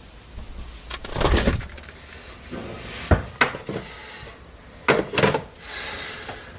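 A handful of knocks and clunks with rustling in between: a cluster about a second in, two sharp strikes around three seconds, and another pair near five seconds, like a cupboard, drawer or refrigerator door and its contents being handled.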